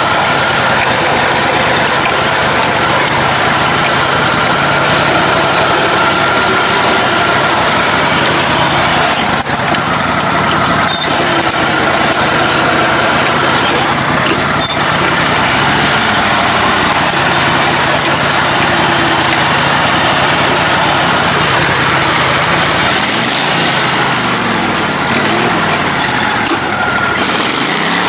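Engine of a lifted, modified riding lawn mower running steadily under load, its pitch shifting up and down near the end as the throttle changes.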